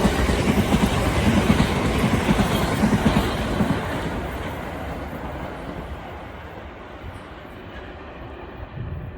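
A train running past on the line, its wheels clattering rhythmically over the rail joints, loud for the first few seconds and then fading steadily as it draws away.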